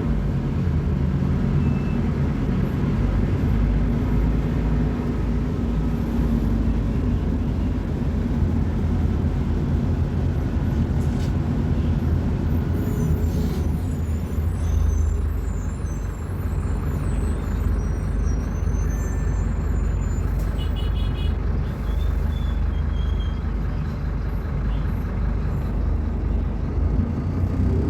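Scania K250UB bus diesel engine running with a steady low rumble, its level holding even throughout.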